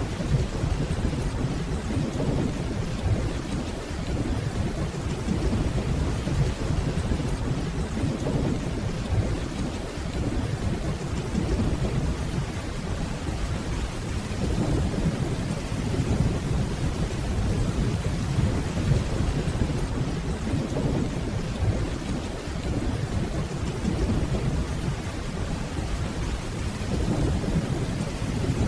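Steady rainfall with low, rolling distant thunder that swells and fades slowly beneath it, with no sharp cracks.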